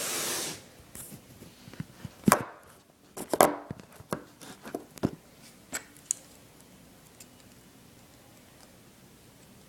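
Small plastic clicks and taps of Lego pieces being handled as a rocket launcher is fitted into a minifigure's hand, a few sharp clicks in the first six seconds, after a brief rustle at the start.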